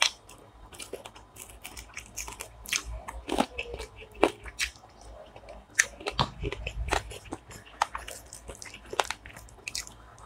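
Chewing and biting through curried chicken feet, with many sharp, irregular crunches.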